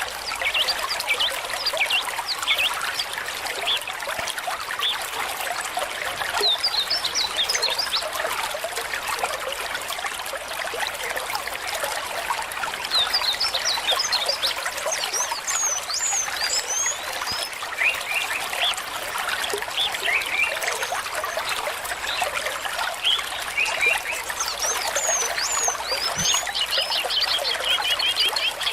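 Small stream trickling and splashing steadily, with short high chirps, likely birds, scattered through it in clusters and a quick trill near the end.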